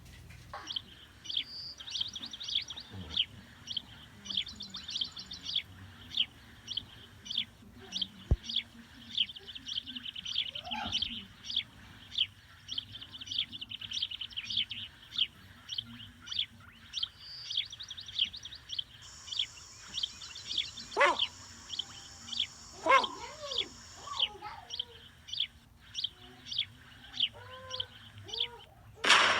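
Bird-like high chirps repeated steadily, about two a second, with a few lower sliding calls in the second half.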